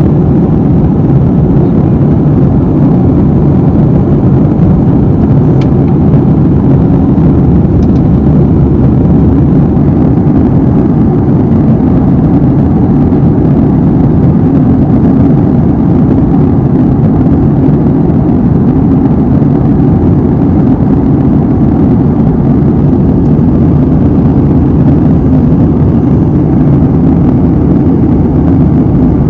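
Steady cabin drone of an airliner in flight: an even low rumble of engine and airflow noise that does not change.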